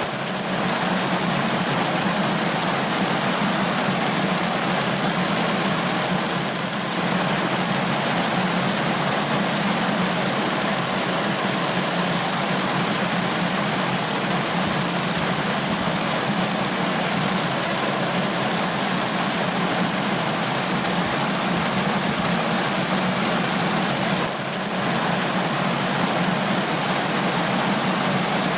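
Steady rain, a dense even patter with a low drone beneath it and two short dips in level, around a quarter and near the end of the stretch.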